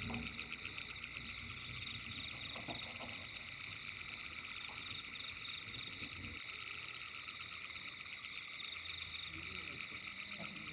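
A steady chorus of calling animals: a fast, high-pitched pulsing that runs on without a break.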